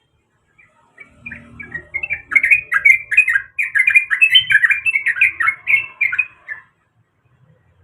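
Yellow-vented bulbul singing a quick, bubbling burst of chattering notes that starts about a second in and stops abruptly near the end, with a faint low rumble beneath it.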